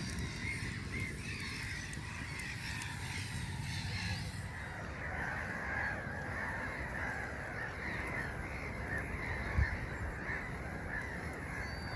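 A flock of birds calling over and over in short, wavering cries, over a steady low rumble of wind. One short dull thump comes near the end.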